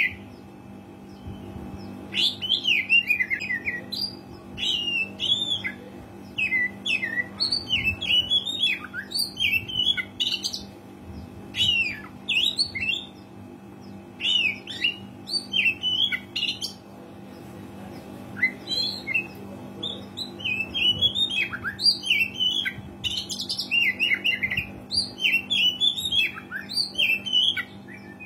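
Oriental magpie-robin in full song, delivering bursts of quick, varied rising and falling notes with short pauses between phrases, over a faint steady low hum.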